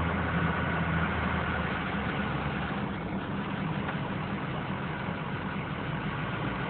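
A motor vehicle engine idling steadily, a constant low hum under a noise haze.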